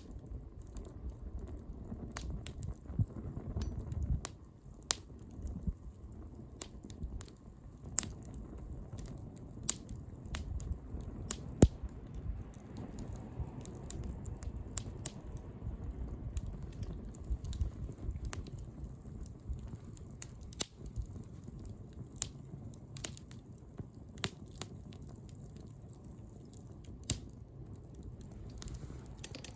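Wood bonfire crackling, with irregular sharp pops over a low steady rush; one pop a little before the middle is louder than the rest.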